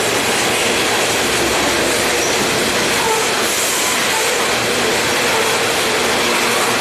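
Freight train cars rolling past on the rails, a loud, steady din of wheels and cars going by without a break.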